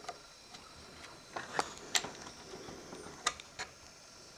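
Light, sharp clicks and taps of small metal parts being handled as a plate is lifted out of a Bell & Howell 8mm projector's drive mechanism, about five in all, the strongest about two seconds in.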